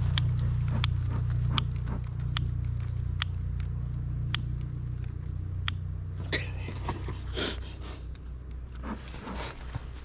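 A lighter being flicked again and again without catching, a sharp click roughly every second, over a steady low hum that fades out about six seconds in.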